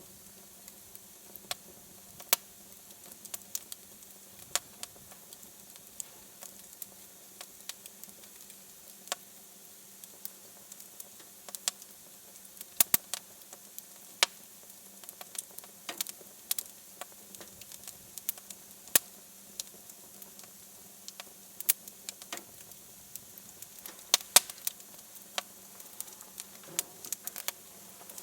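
Wood fire crackling in a fireplace: irregular sharp pops and snaps, now sparse, now in quick clusters, over a faint steady hiss and a low hum.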